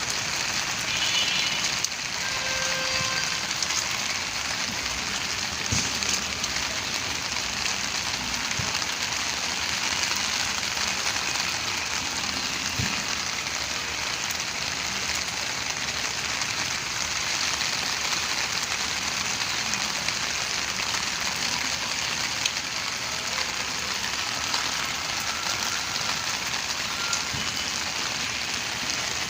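Steady rain falling on a rooftop garden, an even hiss of drops that holds at the same strength throughout.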